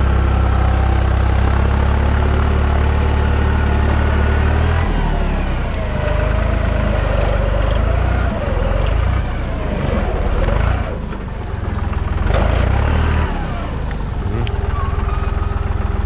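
Deutz 55F tractor's diesel engine running under load while pulling a cultivator; its steady note changes about five seconds in, wavers, and dips briefly a little past the middle.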